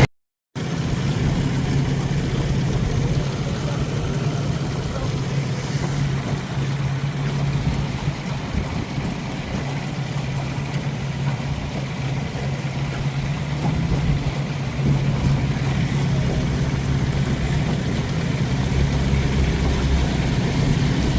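Outboard motor running steadily at an even pitch on the water. A deeper engine sound joins near the end.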